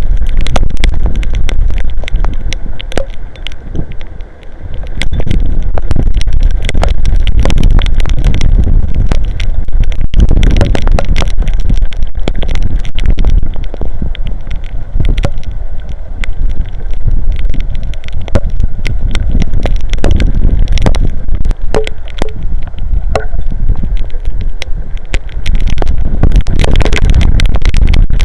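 Strong wind buffeting the microphone in heavy rain, with a deep rumble and many sharp ticks of drops striking. The wind eases briefly about four seconds in, then picks up again.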